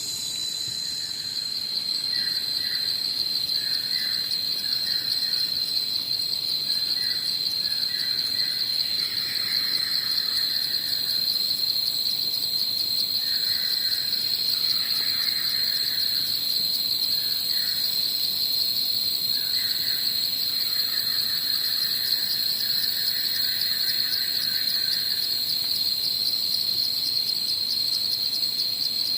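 Evening chorus of insects: a steady, shrill, pulsing trill, with bouts of lower chirping calls coming and going over it.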